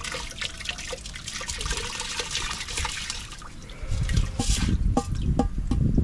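Water trickling and splashing, with many small clicks and drips; a low rumble comes in about two-thirds of the way through.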